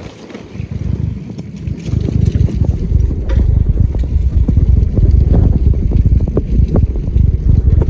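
Wind buffeting the microphone while riding a bicycle along a dirt trail, growing louder about two seconds in, with scattered knocks and clicks.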